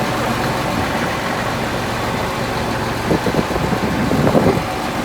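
Steady tractor engine and cab noise heard from inside the cab, with a few brief irregular knocks or rattles a little past the middle.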